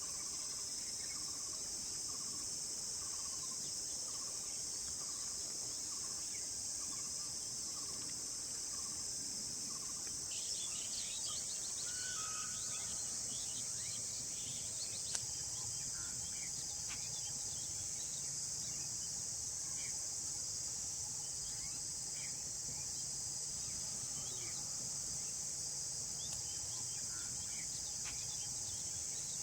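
A steady, high-pitched chorus of insects. Short bird chirps are scattered through it from about ten seconds in.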